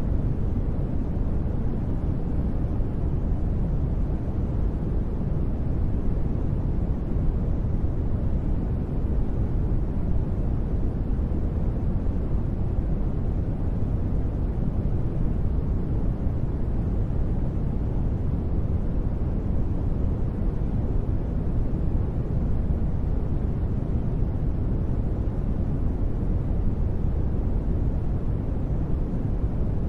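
Continuous steady noise track sold as white noise for sleep, weighted heavily to the low end so it sounds deep rather than hissy. It holds even throughout, with no changes or sudden sounds.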